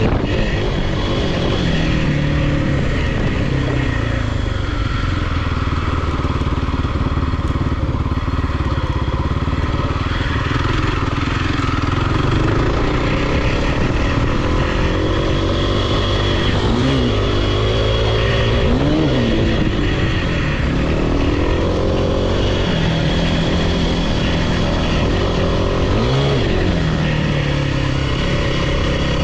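Dirt bike or quad engine running steadily under way, with the revs briefly rising and falling three times in the second half.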